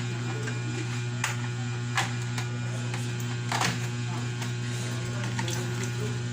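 Steady low electrical mains hum with a stack of overtones, and a few faint clicks and taps from handling.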